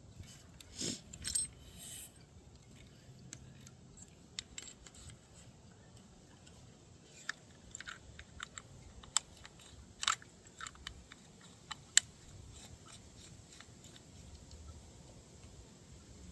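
Scattered clicks and light clatter of small metal parts and hand tools being handled, with a rustling scuffle in the first two seconds and a few sharper clicks later, the loudest about twelve seconds in.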